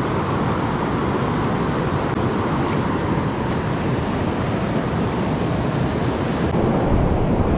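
Creek water rushing steadily over rocks, with a low rumble growing near the end.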